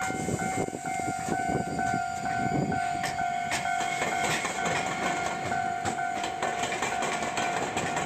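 Japanese railway level-crossing alarm ringing on and on, a steady tone paired with a second higher tone that keeps cutting in and out. From about three seconds in, sharp clacks of train wheels running over a diamond crossing join it.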